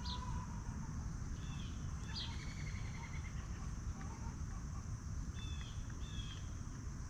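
Farmyard ambience: a steady high insect drone, with short falling bird chirps a few times and a brief trill a couple of seconds in, over a low rumble.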